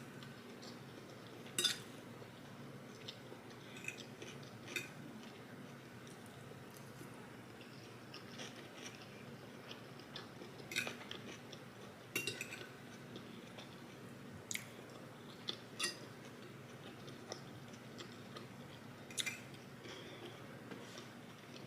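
Fried rice being eaten: soft chewing and biting, with scattered sharp clicks of cutlery against a plate, about a dozen spread unevenly through the span. A faint steady hum sits underneath.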